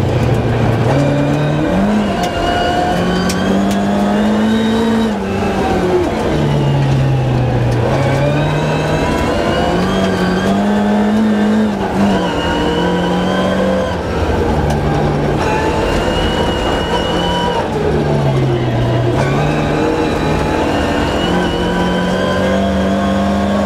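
Rally car engine at hard throttle heard from inside the cabin, the revs climbing and then dropping again and again as it shifts through the gears.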